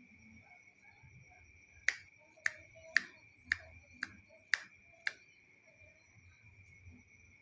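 Seven sharp clicks, evenly about half a second apart, over a steady high-pitched insect drone such as crickets.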